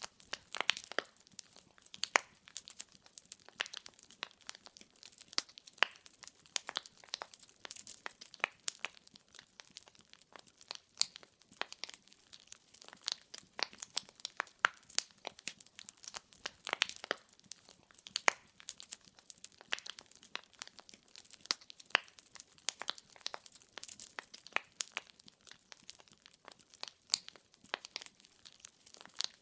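Firewood logs burning in a fireplace, crackling and popping in quick, irregular snaps over a faint hiss.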